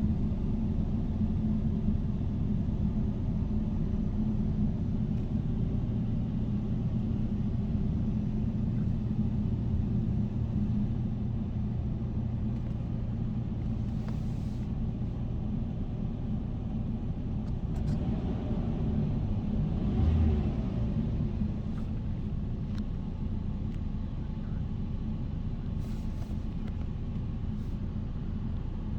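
Jaguar car engine idling steadily after a cold start, with a brief swell in the engine note about two-thirds of the way through.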